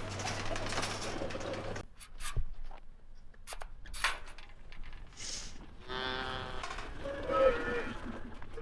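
Calves bawling, a long call about six seconds in and a shorter one soon after, among scattered knocks and clanks; a steady engine hum runs under the first couple of seconds and then cuts off.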